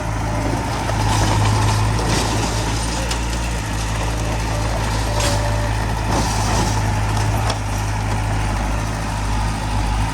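Heavy diesel earthmoving machinery running steadily, with several sharp metallic clanks and knocks over the engine note.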